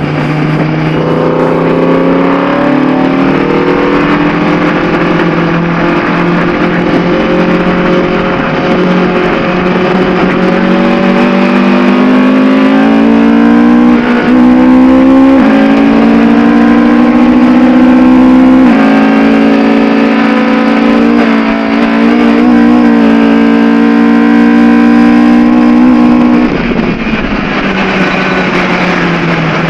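Ford Cortina race car's engine under hard acceleration at the start of a race. Its pitch climbs, drops suddenly twice on upshifts, then falls away near the end as the driver lifts off.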